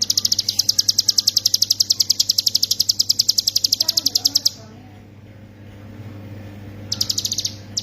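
Ciblek gunung (a mountain prinia) singing its rapid 'ngebren' trill: a long, high-pitched run of fast notes, about a dozen a second, lasting roughly four and a half seconds. A shorter burst of the same trill comes near the end. A steady low hum runs underneath.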